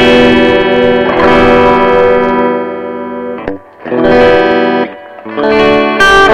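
Electric guitar chords played through a Mesa Boogie Recto-Verb 25 tube combo amp on its clean channel with the treble turned fully up, the mids and bass at half. Several chords are struck and left to ring, with brief breaks a little after three seconds and near five seconds.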